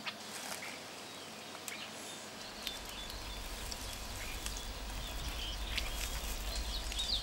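Quiet natural ambience with scattered short, high bird chirps and a low background rumble, slowly growing louder.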